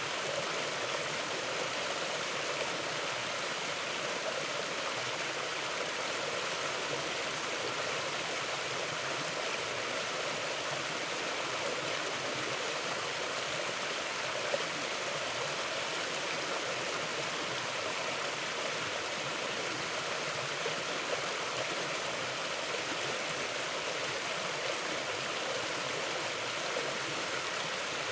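Steady rushing and gurgling of a stream flowing over rocks, an even wash of water noise.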